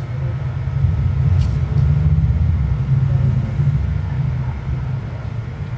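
Dodge Neon SRT-4's turbocharged 2.4-litre four-cylinder engine running freshly restarted after intake and throttle-body reassembly, a steady low rumble.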